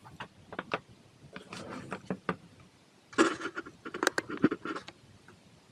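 Objects being handled: irregular clicks and knocks with some scraping, busiest about three seconds in, then quiet near the end.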